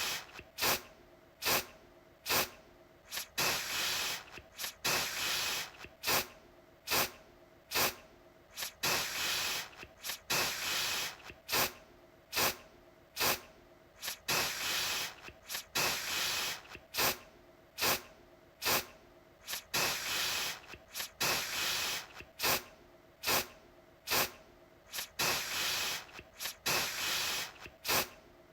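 Aerosol deodorant can spraying in repeated short bursts, some quick puffs and some held for about a second, each a sharp hiss that stops abruptly.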